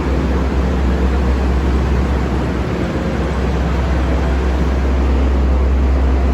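Steady low rumble and noise of a train standing at a station platform.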